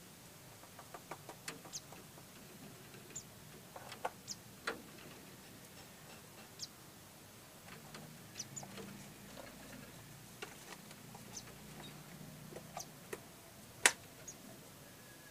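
Scattered short, high chirps and small clicks from pleci (white-eyes) and their nestlings, irregular and faint, with one louder sharp click about fourteen seconds in.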